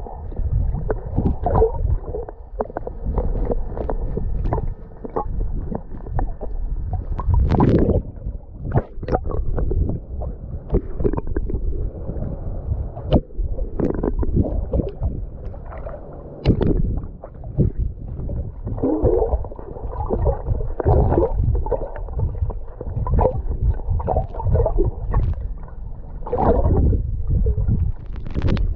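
Seawater gurgling and sloshing with irregular splashes, as a swimmer moves through the water.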